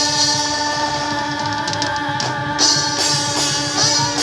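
Live worship band music: a long held chord with drum hits and cymbal washes, a cymbal crash about two and a half seconds in, as the song comes to an end.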